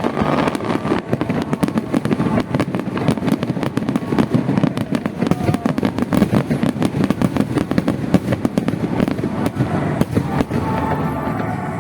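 Aerial fireworks going off in a dense, rapid barrage of bangs and crackles, many each second, with music faintly underneath near the end.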